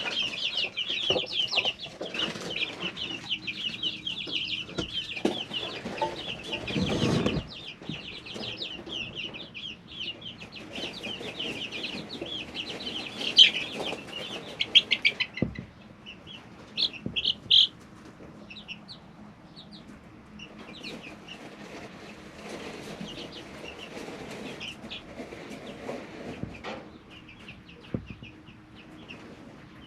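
Three-week-old chicks in a brooder, cheeping continuously in a dense chorus of short high peeps that thins out about halfway through. A brief scuffling noise comes about seven seconds in, with a few light taps scattered throughout.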